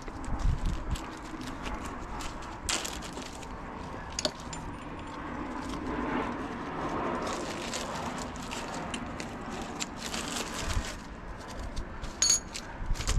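Scattered clicks, clinks and rattles of hand tools and metal parts being handled while a motorcycle engine is taken apart.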